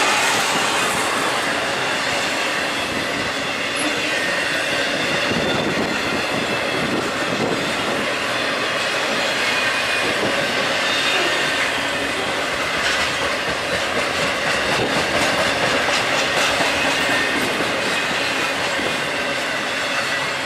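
A BNSF intermodal freight train's cars, flatcars carrying trailers and containers, rolling past with the steady noise of steel wheels on rail.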